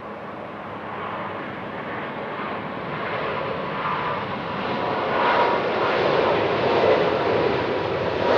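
Jet airliner's engines, a broad roar with a faint whine in it, growing steadily louder as the aircraft comes closer.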